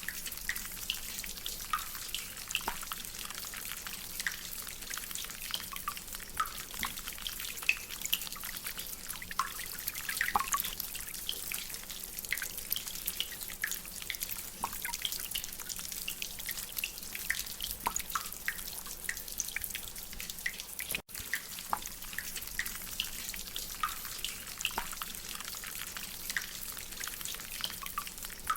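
Rainwater dripping from a drainpipe: many irregular drips and splashes over a steady hiss of rain. The sound drops out for an instant about twenty-one seconds in.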